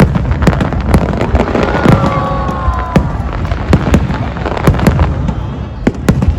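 Fireworks bursting in a rapid, irregular string of loud bangs and crackles. About two seconds in, a short pitched sound glides slightly downward among them.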